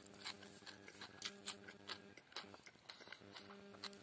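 Close-up chewing and eating mouth sounds: wet smacks and clicks several times a second as a mouthful of rice and grilled pork is chewed.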